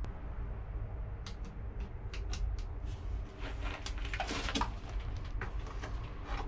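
Scattered clicks, taps and scraping from small plastic parts and a screwdriver being handled during wiring work, with a denser run of scraping about three and a half to four and a half seconds in, over a steady low rumble.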